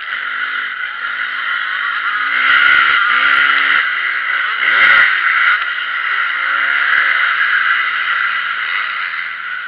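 Motocross bikes running on the track, engines revving up and down through the gears. One bike comes closer and louder between about two and five seconds in, its pitch sweeping, then fades back into the steady engine noise.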